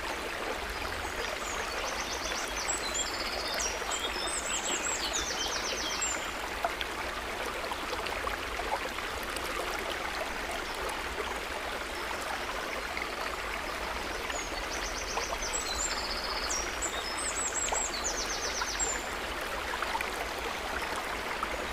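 Steady trickling, babbling water. A short high chirping phrase, bird-like, comes twice, about a second in and again about 15 seconds in.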